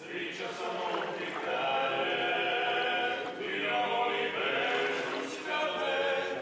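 Background music: choral singing in long held notes that change about every second.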